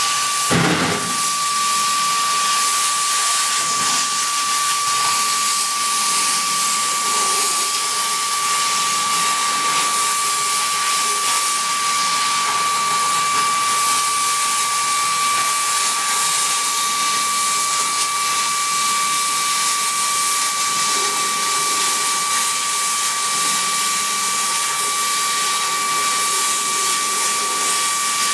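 Oxy-LPG cutting torch running steadily while cutting 32 mm steel plate: a loud, even hiss of the flame and cutting-oxygen jet, with a steady high whistling tone through it. A brief low thud sounds about half a second in.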